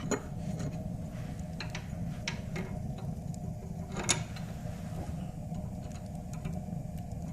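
Wood-burning fireplace stove: scattered light clicks and crackles, with one sharper click about four seconds in, over a low steady rumble.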